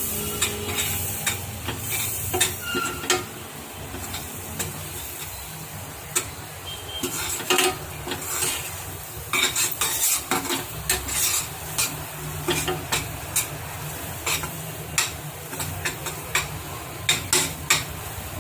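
Flour frying in butter and oil in a pan, stirred and scraped with a utensil: a soft, steady sizzle under frequent irregular clicks and scrapes of the utensil against the pan. This is the roasting of the flour until it begins to change colour.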